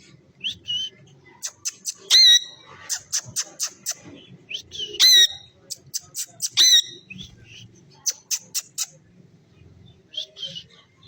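Pet parrot squawking: three loud, harsh squawks about two, five and six and a half seconds in, among shorter calls and many quick sharp clicks and chirps.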